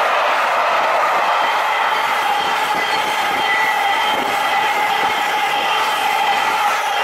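Train running along the track, a steady loud rumble with a thin, steady high whine over it.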